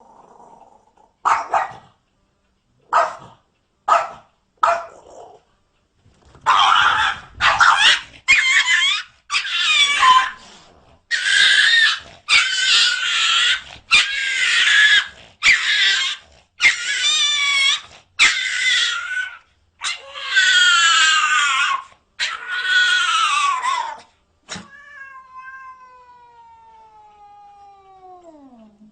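Cats yowling: a few short calls, then a string of longer, harsh, wavering yowls, and near the end one long yowl that slides steadily down in pitch.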